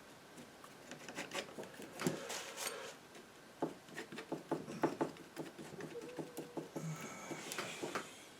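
Palette knife working oil paint: irregular small clicks and taps, with longer scrapes about two seconds in and again near the end, as paint is mixed and laid on.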